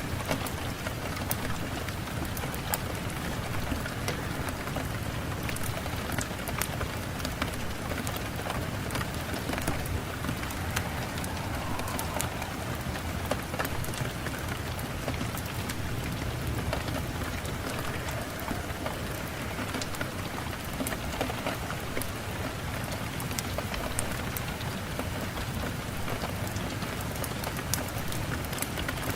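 Steady rain falling, with individual drops pattering and ticking sharply on a hard surface.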